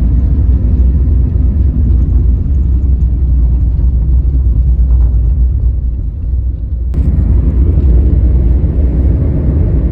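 Steady low rumble of a moving vehicle heard from inside, with road or track noise and some buffeting on the microphone. The sound shifts abruptly about seven seconds in.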